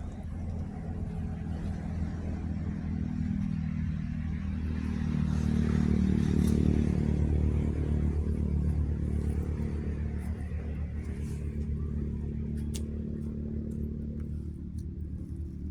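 A motor vehicle's engine running steadily, growing louder about midway and easing off again toward the end.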